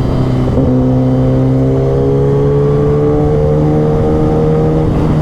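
Kawasaki ZX-10R inline-four running through an aftermarket Austin Racing exhaust while riding, its loud engine note rising slowly in pitch as the revs climb.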